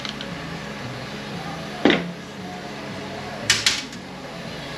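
Metal transmission parts being handled on the bench: one solid clunk with a short ring about two seconds in, then two sharp clicks in quick succession, over a steady low hum.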